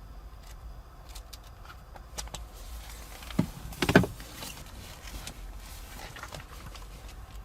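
Scattered light clicks, with a sharp knock and then a short, heavier thump about halfway through, over a steady low hum.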